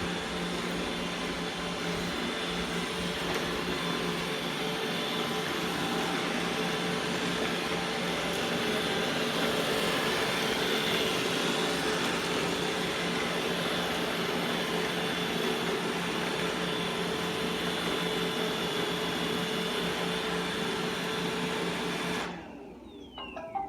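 Roomba i3 robot vacuum running a spot clean: a steady whir from its vacuum motor and brushes. About 22 seconds in it shuts off suddenly, and a few short electronic tones follow near the end.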